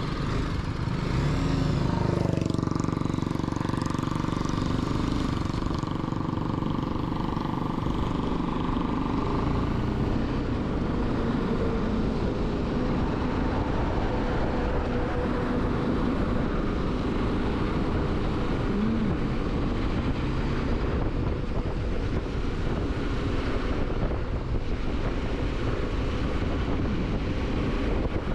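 Motorcycle engine running at road speed, under a steady rush of road and wind noise.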